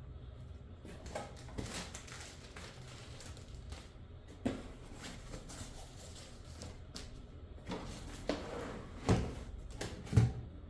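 Cardboard box and packaging being handled: scattered rustles and light knocks, with two louder knocks near the end.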